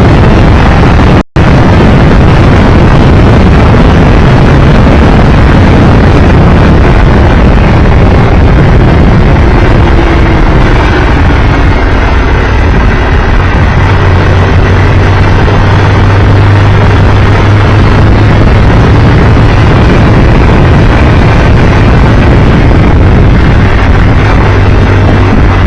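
Loud wind rush on the microphone over a Triumph Tiger Explorer 1200 motorcycle's engine running at road speed, with a steady low engine hum standing out from about halfway. The sound cuts out for an instant about a second in.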